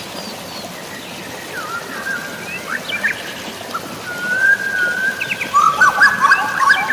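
Several songbirds chirping and whistling over a steady hiss of rain or falling water; the calls are sparse at first and grow busier and louder in the second half.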